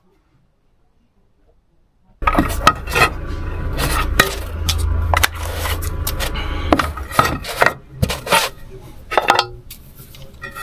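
Near silence for about two seconds, then, starting suddenly, a run of clattering and clinking of hard objects over a low rumble.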